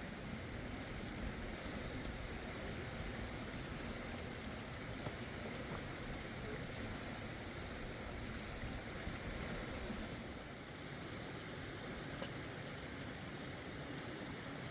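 Steady rushing of a mountain river or stream flowing over rocks.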